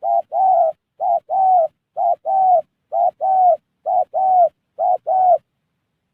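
Spotted dove (tekukur) cooing: six paired calls, each a short note followed by a longer, slightly falling one, about one pair a second, stopping about five and a half seconds in.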